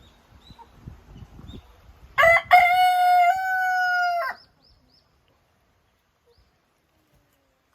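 A rooster crowing once, a single call of about two seconds held on one pitch and dropping off at the end. Faint low knocks and rustling come before it.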